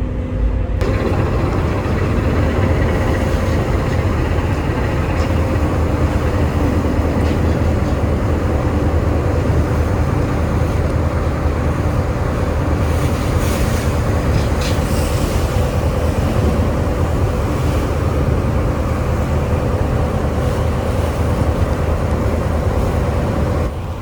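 Engines and hull of the passenger boat Furutaka heard on board while it is underway: a steady, heavy low rumble with a constant hum.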